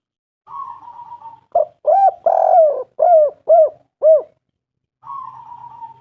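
Spotted dove (tekukur) calling: a soft wavering note, then a loud run of about six arched cooing notes, one longer in the middle, then the soft wavering note again near the end.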